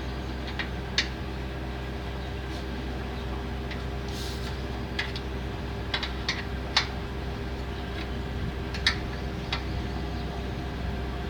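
Scattered sharp metallic clicks of a spanner working loose the rear axle nut of a bicycle, at irregular intervals over a steady low hum.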